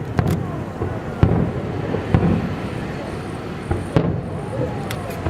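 Aerial fireworks bursting: about half a dozen sharp bangs at irregular intervals over a continuous low noise from the display.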